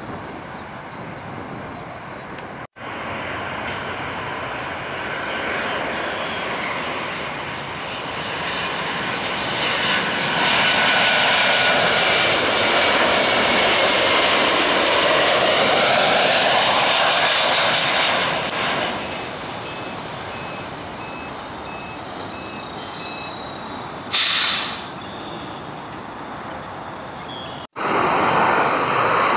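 Jet airliner engines running as the aircraft passes, the sound swelling to its loudest midway with a slowly falling pitch, then easing off. A short burst of noise near the end.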